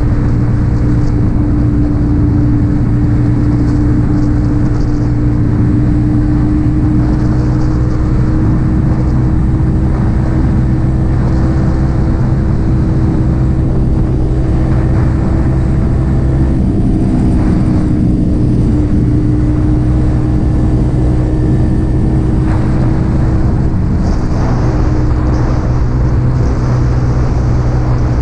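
Yamaha XSR 155's single-cylinder engine through an aftermarket M4 exhaust, running at steady revs while riding, with a brief change in engine pitch a little past the middle.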